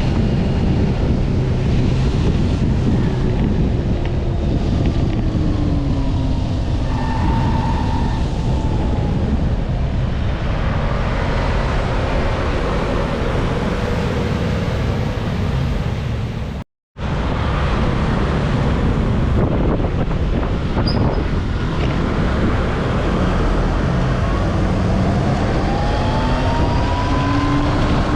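Wind buffeting the microphone over road traffic while riding, with vehicle engines rising and falling in pitch. The sound cuts out completely for a split second about seventeen seconds in.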